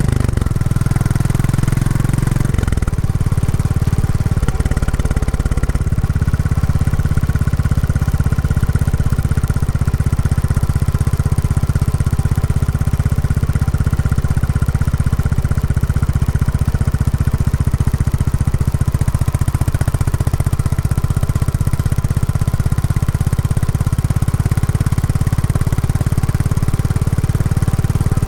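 Royal Enfield Classic 350's single-cylinder engine running through its stock exhaust, a steady low note. The note changes about two to three seconds in and holds steady from about six seconds on.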